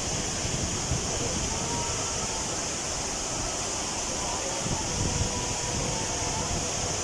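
Waterfall water falling onto rock: a steady, even rush with a strong hiss.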